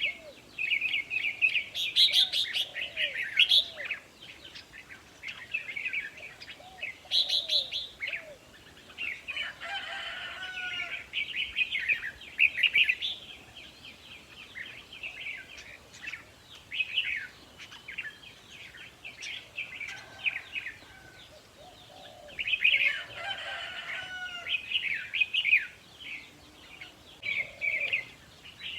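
Red-whiskered bulbuls singing: short, rapid warbled phrases repeated in bursts with brief pauses, several birds overlapping.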